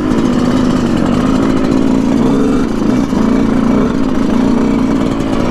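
Yamaha YZ125 two-stroke dirt bike engine running under way at fairly steady revs, loud and close, with a slight waver in pitch midway.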